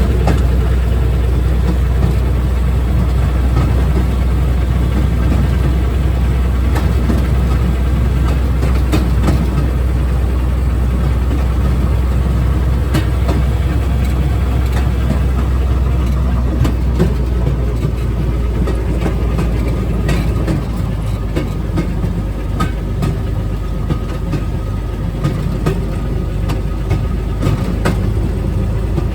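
Railroad speeder running along the track: a steady low engine drone with the rumble of steel wheels on rail and scattered clicks and clacks from the wheels over rail joints. The low drone drops off about two-thirds of the way through.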